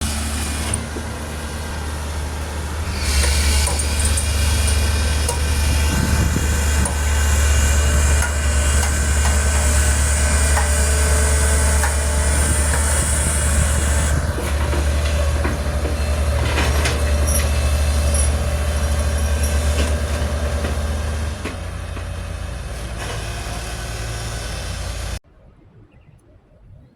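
Heavy diesel construction machinery running under load, a steady low engine rumble with high metallic squealing over it, which cuts off abruptly near the end.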